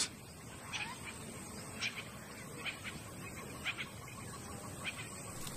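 Bush ambience: a few short bird chirps, about one a second, over a steady low background hiss.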